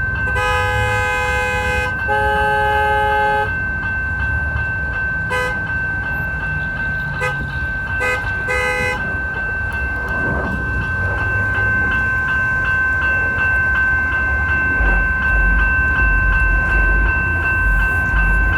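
Light-rail train horn: two long blasts, then several short toots a few seconds later, over a steady low rumble and a continuous high tone.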